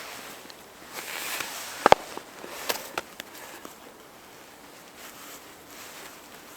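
Rustling, with a few sharp clicks and snaps; the loudest is a quick double click about two seconds in, with smaller clicks just before and after three seconds.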